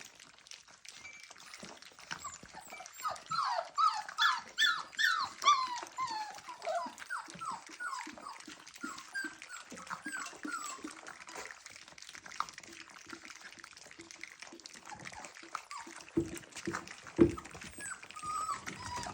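Four-week-old Dalmatian puppies whining and squeaking: many short, high-pitched squeals that slide down in pitch, coming thick and fast for a few seconds early on and then more scattered. Small clicks run underneath, and a couple of dull thumps come near the end.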